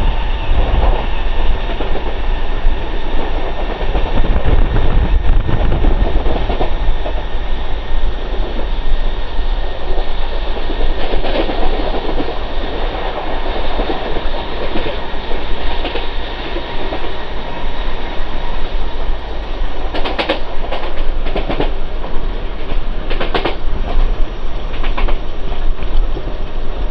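Mumbai suburban electric local train running at speed, heard from inside the coach: a steady rumble and rattle of wheels on rails. A run of sharp clacks comes about twenty seconds in.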